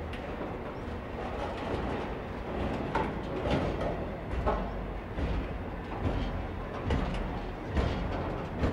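Freight train of covered hopper wagons rolling past, a steady low rumble of wheels on rail with irregular knocks as the wheelsets go over the track.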